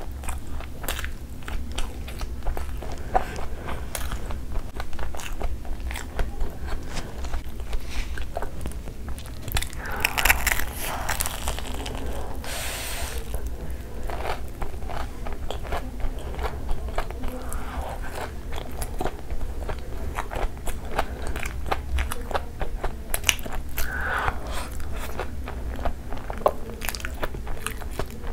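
Close-miked eating sounds: chewing with many sharp crunches and wet mouth clicks, with a louder, denser crunch about ten seconds in, biting into a deep-fried, crumb-coated potato and mozzarella cheese ball.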